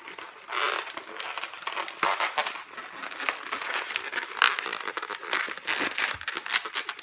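Inflated latex modelling balloon rubbing and crinkling against itself in many short, irregular scrapes as one bubble is pushed through two other twisted bubbles to form a roll-through body. The rubbing starts about half a second in and goes on busily.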